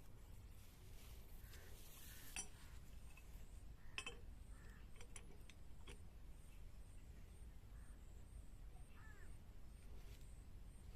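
Near silence: a faint low rumble with a few scattered light clicks and taps, and no engine running.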